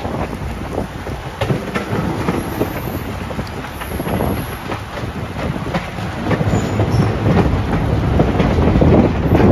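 Train running at speed, heard from an open window of a passenger coach: a steady rush of wheel and wind noise with wheels clicking over rail joints many times, growing louder near the end.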